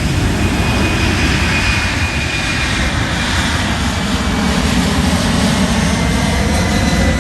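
Jet airliner's engines running loud and steady as it passes, with a faint high whine above the roar.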